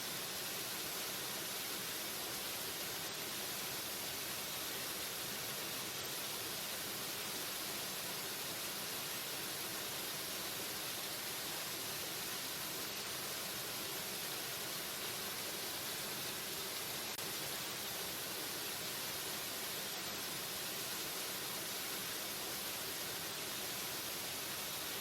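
Waterfall rushing steadily: an even, hissing wash of falling water with no breaks or changes.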